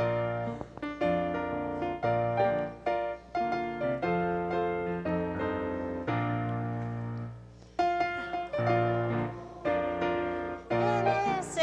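Piano playing a hymn-like postlude: chords and melody notes struck one after another over sustained bass notes, with a short pause about eight seconds in.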